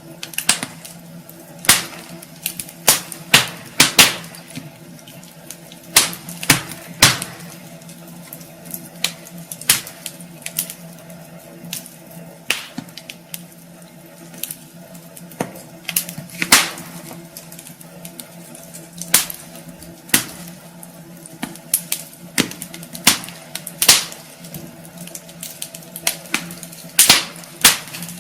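Wood fire burning in a fireplace, crackling with irregular sharp pops and snaps, some much louder than others, over a steady low hum.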